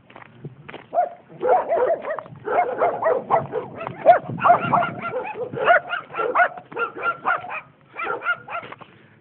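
A flock of wild birds calling: many short calls overlapping in quick succession, with a brief lull near the end.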